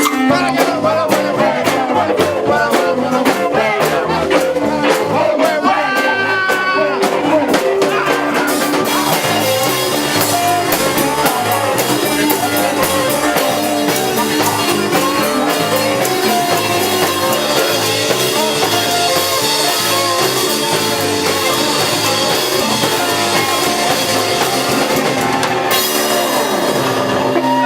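Live rock band playing loudly, with drum kit, guitar and singing. The music ends right at the close.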